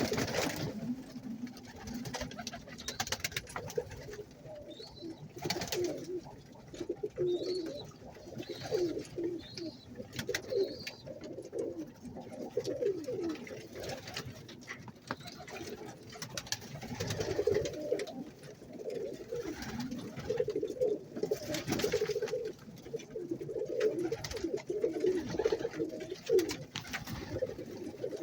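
Many domestic pigeons cooing at once, the coos overlapping continuously, with a few brief louder noises now and then.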